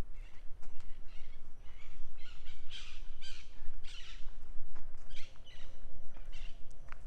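A bird giving a run of harsh, rasping calls, about a dozen in all, with a steady low rumble underneath.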